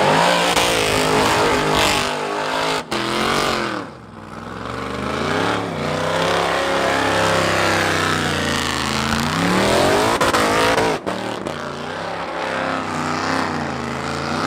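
Ultra4 race car's TorqStorm-supercharged V8 revving hard in a burnout, its pitch sweeping up and down again and again as it is held near the rev limiter, with the tyres spinning. The sound drops out for an instant twice.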